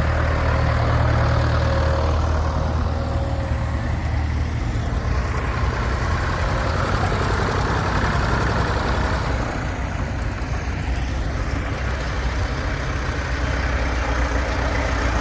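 Vintage tractors driving past one after another, their engines running with a deep, heavy low end that swells as each one goes by.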